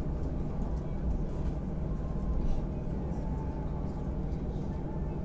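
Steady low rumble of an Airbus A320's jet engines, even and unchanging.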